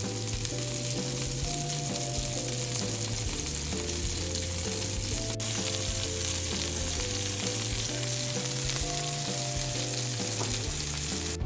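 Food frying with a steady sizzle, under background music playing a melody.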